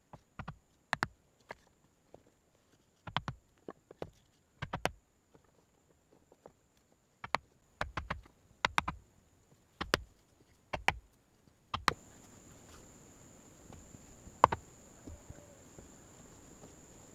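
Sharp knocks and clicks, irregular and mostly in clusters of two or three, with near silence between them. About twelve seconds in they stop and a steady high insect drone with outdoor background noise takes over, broken once more by a single sharp knock.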